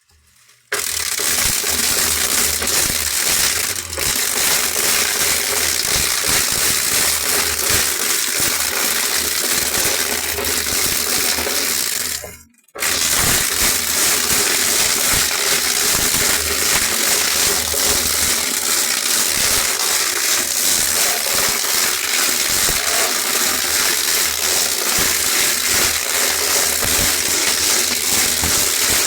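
A steady, loud rattling noise of a machine crushing or grinding material. It starts under a second in and cuts out briefly about twelve seconds in before carrying on.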